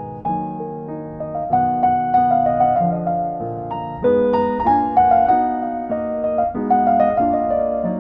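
Background piano music: a gentle melody of single notes over held chords, each note struck and fading.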